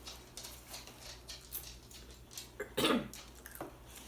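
Close-up eating sounds: small crunches and mouth clicks from chewing tortilla chips with salsa, with one louder short sound about three seconds in.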